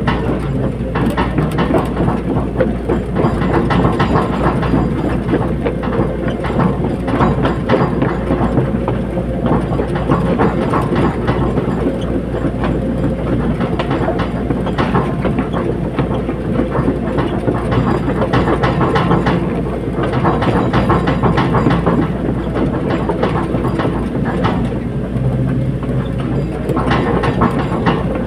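Caterpillar 320D hydraulic excavator working: its diesel engine runs steadily under load amid continual metallic clanking and knocks.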